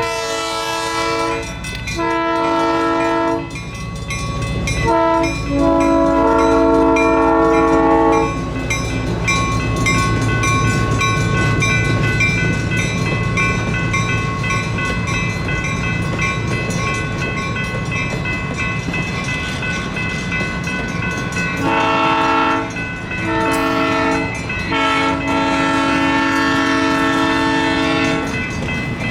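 Locomotive air horn sounding the long-long-short-long grade-crossing signal twice, once at the start and again from about 22 seconds in. Between the two, the train rumbles through the crossing. The electronic crossing bells ring throughout.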